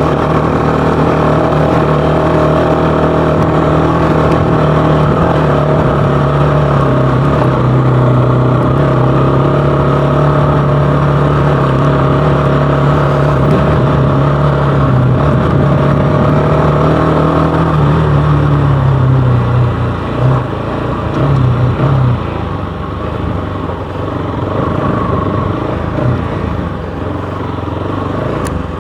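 Bajaj Pulsar AS200's single-cylinder engine through an aftermarket KTM Duke 250 exhaust, ridden on a rough off-road track. It holds steady revs for most of the stretch, then the throttle is eased off, with two short blips a couple of seconds later before it runs on more quietly.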